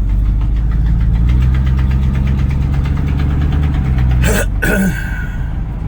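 Chevrolet 305 small-block V8 of a 1984 C10 pickup pulling under throttle, its pitch rising and then holding steady. It eases off about four seconds in, with a short sharp sound at that moment.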